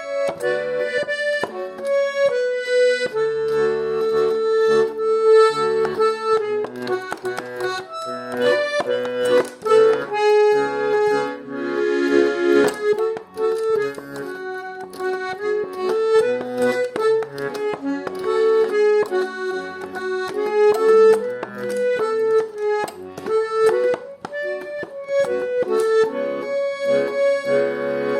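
Garmon (Russian button accordion) playing a melody line with bass-and-chord accompaniment, solo and without singing.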